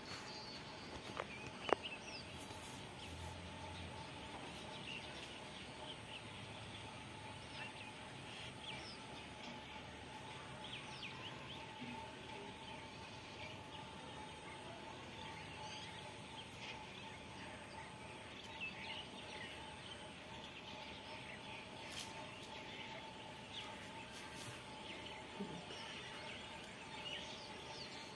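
Faint background of small birds chirping now and then over a steady faint hum, with one sharp click about two seconds in.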